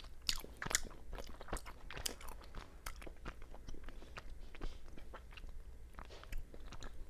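Close-up chewing of a soft mochi rice cake with fruit-flavoured bean paste, with quick irregular wet mouth clicks and smacks.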